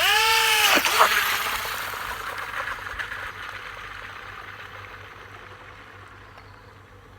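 Small 180-size electric motor of a tin-can RC speedboat starting with a sudden whine that rises and falls in pitch within about a second, a second short burst about a second in, then a hissing run that fades steadily.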